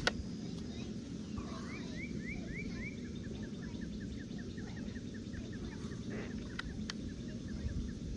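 A single quiet shot from a J.C. Higgins bolt-action .22 LR rifle firing subsonic match ammunition: one short sharp crack right at the start. After it a bird calls a long run of quick repeated chirps, about five a second, for most of the rest.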